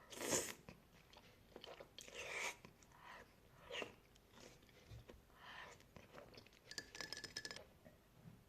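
A person biting and chewing crunchy food, with a loud crunch right at the start, another about two seconds in, and a quick run of small crackles near the end.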